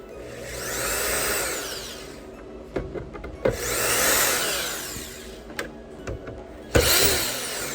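Electric screwdriver with a T8 security bit spun up three times to back out screws, its motor whine rising and falling in pitch on each run, with small clicks between the runs.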